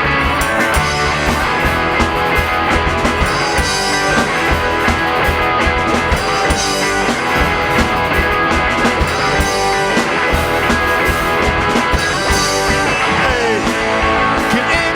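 Live rock band playing an instrumental break: electric guitars, bass and drum kit, steady and loud.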